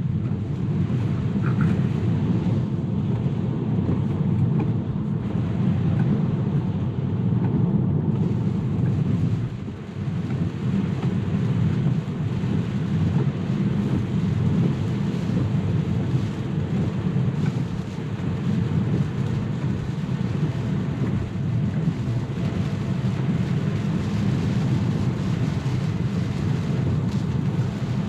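Steady low rumble of tyres on a wet road, heard inside a Tesla's cabin while it drives, with a brief dip about ten seconds in.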